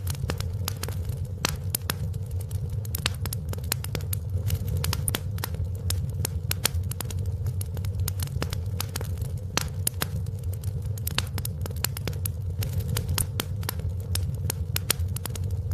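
Wood fire crackling in a fireplace: many sharp pops and snaps scattered irregularly over a steady low rumble of the burning fire.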